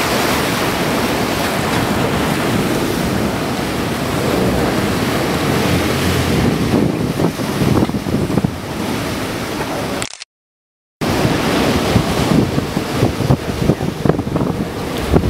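Ocean waves and wind buffeting the microphone on a boat, a steady rush of noise. It cuts out for about a second near the two-thirds point, then comes back in choppier gusts.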